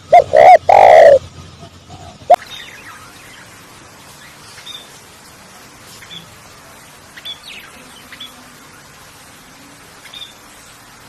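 Birds calling: three loud, pitched calls in the first second or so and one short sharp call about two seconds in, followed by faint, scattered high chirps over a steady background hiss.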